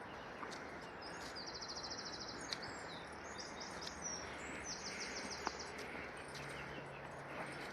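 A small songbird singing: a fast, high trill, a few short chirps, then a second trill, over a steady outdoor hiss.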